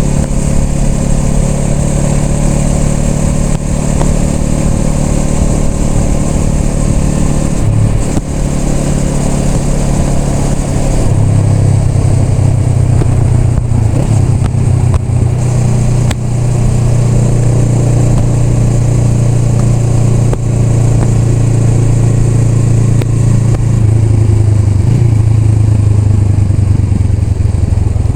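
Honda Rebel 500's parallel-twin engine running while riding, with a brief drop in level about eight seconds in, then a louder, steadier pull from about eleven seconds on.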